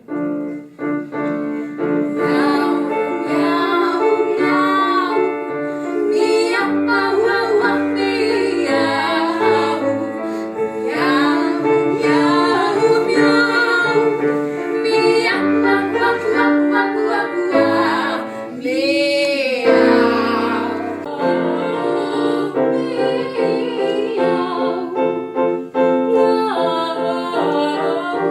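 Operatic female voice singing a comic 'meow' duet with piano accompaniment; a little past the middle she holds one long note with wide vibrato.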